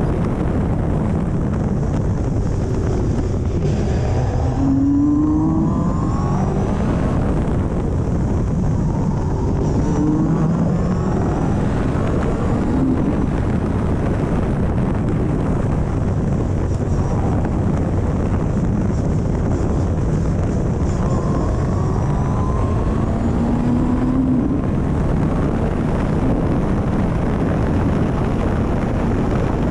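Caterham CSR260's 2.3-litre four-cylinder engine driven hard on track, heard from the open cockpit with heavy wind and road noise; the engine pitch climbs several times as it pulls through the gears.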